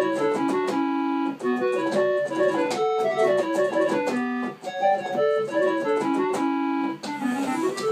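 An old electronic keyboard on its default preset voice playing a fast rock melody in quick runs of single notes, the same phrase played twice; near the end a run of notes climbs steadily in pitch.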